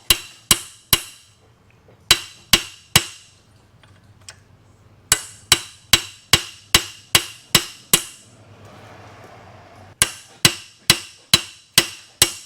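Hammer blows on the steel of a hydraulic cylinder, sharp ringing strikes at about two to three a second in runs of several, working at a frozen keeper ring to get it turning. The runs pause twice, the second time for a short stretch of softer, steady noise.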